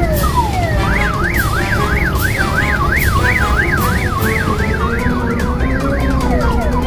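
Electronic siren sound: a falling whoop, then a fast yelp wailing up and down about two or three times a second, which gives way near the end to rising stepped tones, over a steady low rumble.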